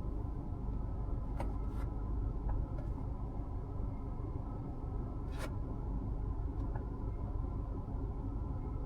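Steady low rumble of road, tyre and engine noise inside the cabin of a Mazda CX-5 with the naturally aspirated 2.5 e-SKYACTIV G engine, heard while driving. A couple of faint clicks come about a second and a half in and again about five seconds in.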